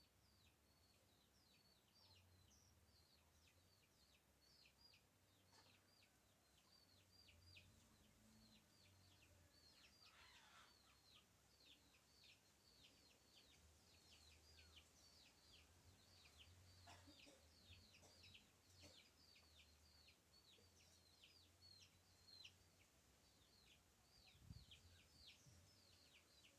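Faint, continuous chirping of birds: a stream of short, high, downward-sliding calls, several a second, with a couple of lower calls about ten and seventeen seconds in.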